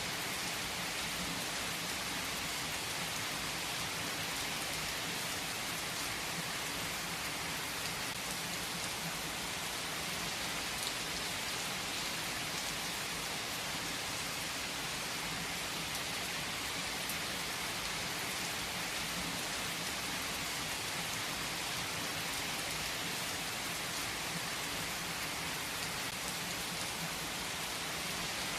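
Steady rain falling, an even, unbroken hiss with no changes or single loud events.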